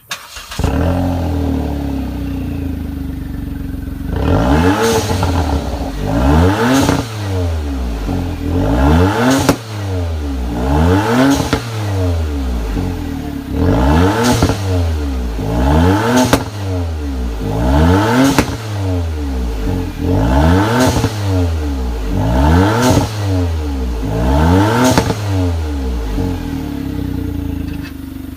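Kia Ray Turbo's turbocharged three-cylinder engine through an aftermarket WAFP variable exhaust. It comes in suddenly, idles for about four seconds, then is revved about ten times, roughly every two seconds, each rev rising and dropping back to idle.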